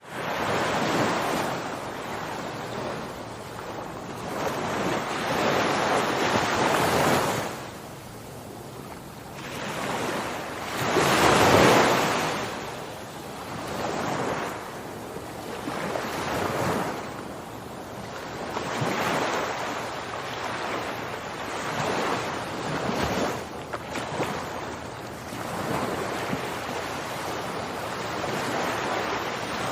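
Recorded ocean waves, a rushing wash that starts suddenly, then swells and fades every few seconds, each surge building and falling away. The loudest surge comes about a third of the way in.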